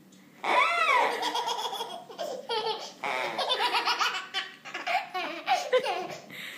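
Toddler laughing hard in repeated belly laughs and squeals, amused by a stuffed animal's fart noise.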